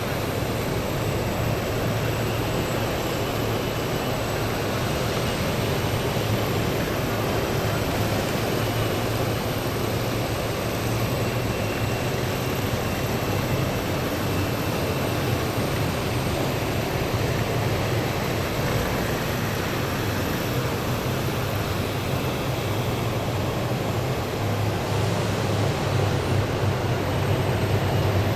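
Heavy military vehicles driving past in a column: a steady low engine drone with tyre noise and a faint high whine, growing a little louder near the end.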